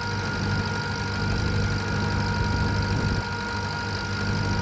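Tractor engine running steadily at a constant speed, with a thin steady whine above the engine's low drone.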